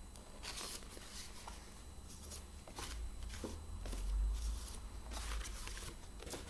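Soft rustling and light taps of paper flashcards being handled and shuffled, with a low rumble of handling noise around the middle.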